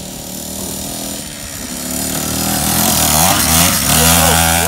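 Small 50cc kids' dirt bike engine running steadily, getting louder about two seconds in.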